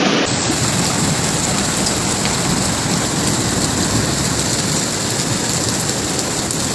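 Heavy storm rain pouring down steadily, with a few scattered sharp ticks of drops or hailstones striking.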